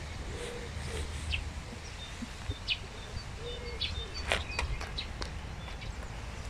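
Songbirds chirping and calling in short, scattered notes, busiest in the second half, over a steady low rumble.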